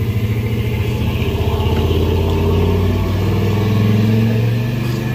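A motor vehicle's engine running close by, low and steady, rising a little in pitch and level in the middle before easing off near the end.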